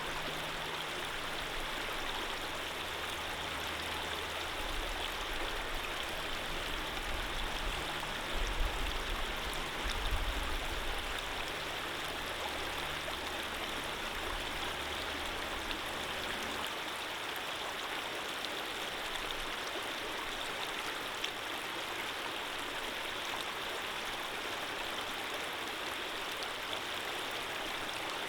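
Running water flowing steadily as a continuous even rush. A low rumble sits underneath, swells briefly about a third of the way in and drops away a little past halfway.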